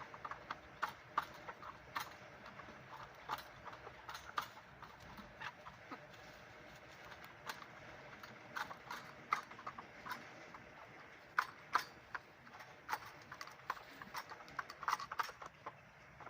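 Scattered sharp taps and clicks at an uneven pace, roughly one to three a second, over a low steady background.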